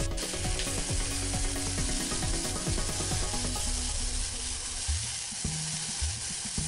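Turkey thighs sizzling steadily as they fry in hot oil in a pan, browning to a golden colour.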